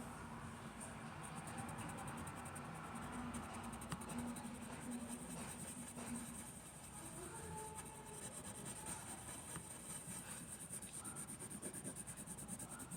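Faint rustling and scratching of paper being handled, with a few faint held tones in the background.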